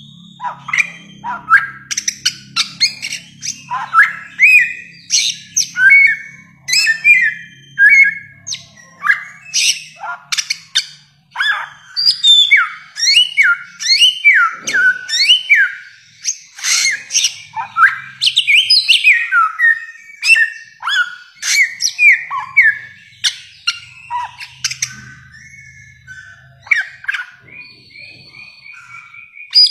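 Bare-throated whistler (samyong) singing a long, rapid series of loud, sharp whistled notes, many of them sweeping downward. The song turns softer, with quicker repeated notes, near the end.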